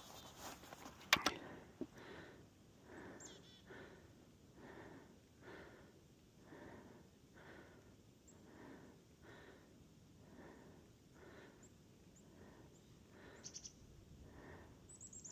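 Footsteps crunching through deep snow at a slow, even walking pace, about one step a second, with a sharp click about a second in. A couple of faint high chickadee calls come through in the background.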